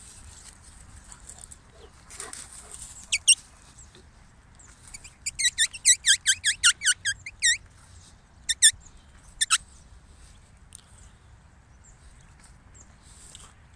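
Small bird chirping: a fast run of about a dozen high, sharp chirps lasting about two seconds, with a few single or paired chirps before and after.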